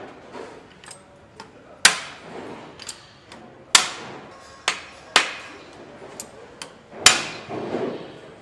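Sharp knocks and clanks at irregular intervals, five loud ones with lighter clicks between, from tools and parts being handled at an engine assembly station.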